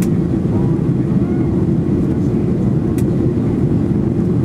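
Boeing 737-800 with CFM56-7B turbofans: a steady low rumble of engine and airflow noise, with a faint click about three seconds in.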